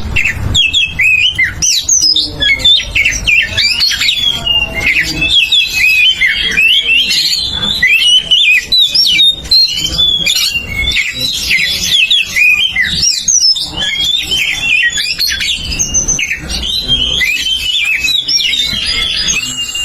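Oriental magpie-robin (kacer) singing its loud 'ngeplong' song: an unbroken stream of quick, varied whistles and chirps that rise and fall in pitch.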